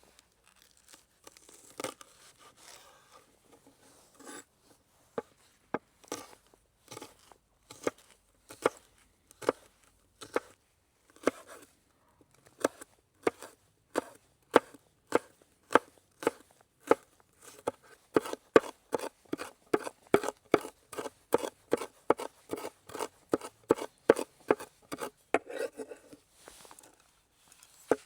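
Knife chopping food on a cutting board: a run of sharp taps, sparse at first, then settling into a steady two to three cuts a second, with a short pause near the end.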